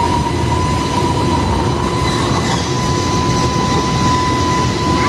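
JR Freight EH500 dual-voltage electric locomotive passing close by with a freight train: a steady, loud rumble of wheels on rail, with a steady high whine over it.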